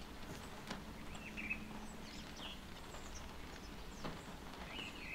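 Rain falling on a car, heard from inside: a steady patter with scattered sharper drop taps on the roof and windscreen. Birds outside chirp briefly a few times, about one and a half, two and a half and five seconds in.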